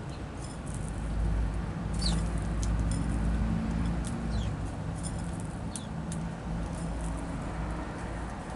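Small songbirds at a seed feeder: a few short, high chirps that drop quickly in pitch, mixed with light ticking and pattering, over a steady low rumble.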